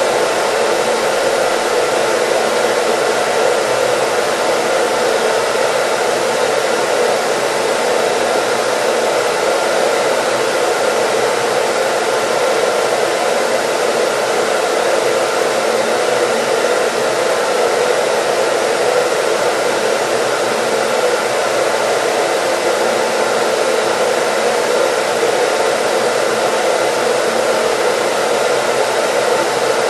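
Hair dryer running steadily on one setting: an even, unchanging rush of blown air with faint steady motor tones under it.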